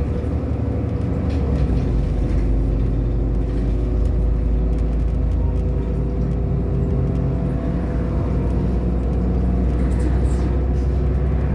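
Irisbus Agora L city bus running under way, its diesel engine droning steadily, with the engine note rising slowly over the later part as the bus picks up speed.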